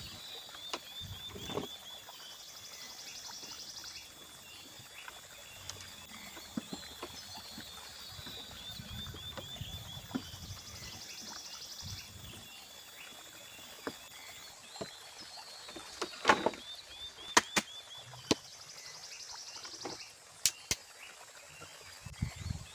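Evening chorus of insects and frogs: a high steady insect drone with trills that come and go, and short series of quick chirping calls that repeat several times. Around two-thirds of the way in come a few sharp knocks.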